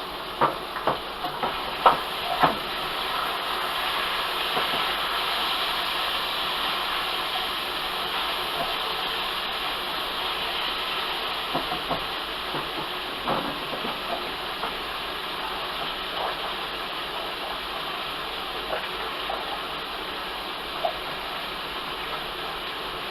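Bacon sizzling steadily in a frying pan, with a few clinks of a utensil against the pan in the first couple of seconds and again about halfway through.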